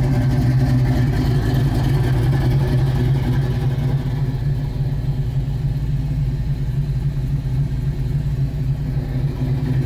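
Early-1970s Plymouth muscle car's engine idling steadily, a little quieter from about four seconds in.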